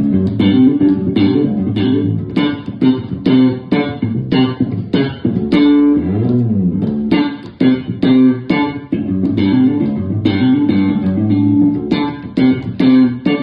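Bass guitar played in a quick run of plucked notes, with a note sliding down in pitch and back up about six seconds in.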